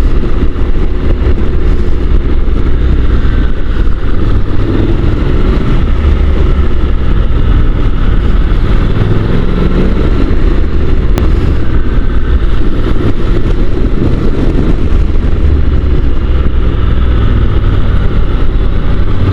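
Honda NC750 DCT motorcycle's parallel-twin engine running while riding a twisting road, its pitch rising and falling with the bends. Heavy wind rumble on the microphone runs under it.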